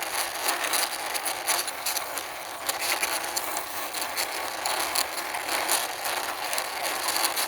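Toy dump truck pushed along by hand, its wheels rolling with a continuous clicking clatter.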